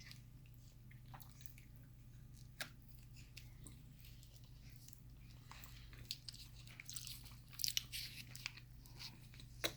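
A cockatoo's beak clicking and smacking as it eats peanut butter: soft, scattered clicks that come thicker toward the end, over a steady low hum.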